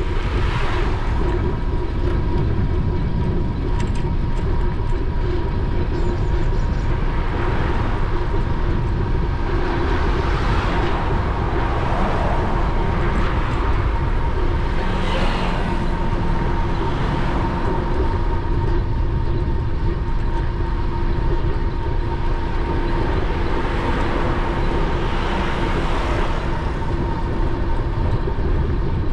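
Wind rumbling on an action camera's microphone while riding an e-bike, with a steady thin whine throughout and traffic swelling past several times.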